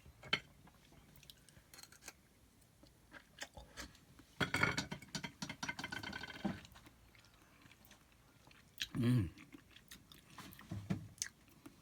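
A man eating a raw oyster with lime: a few small clicks of shell, a noisy slurp of about two seconds, then chewing, with a short hum near the end.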